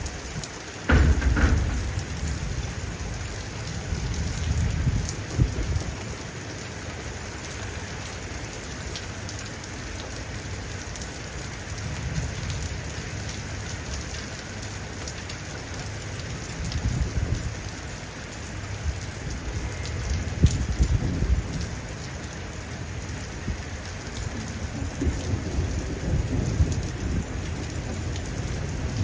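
Steady rain falling during a thunderstorm, with thunder rumbling several times. The loudest and sharpest crack of thunder comes about a second in, followed by further low rumbles every few seconds.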